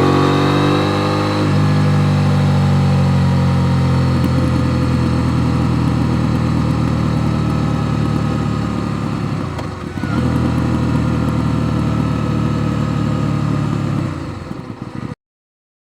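KTM 890 Duke R parallel-twin engine, its revs falling over the first second or so and then settling to a low, steady run like an idle, with a brief dip about ten seconds in. The sound cuts off suddenly near the end.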